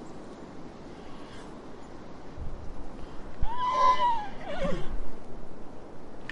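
Horse whinnying once: a high call that arches up, then falls away in a wavering, shaky descent.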